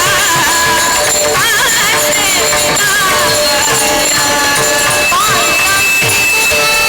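Marathi devotional kirtan singing: a voice sings a melody full of wavering ornaments over steady held notes, with jingling percussion throughout.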